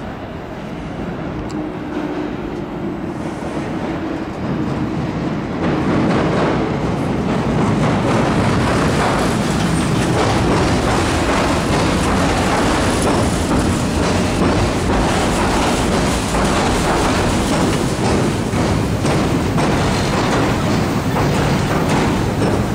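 A train crossing the steel railway bridge that runs right beside the river walkway. The noise builds over the first six seconds and then stays loud and steady.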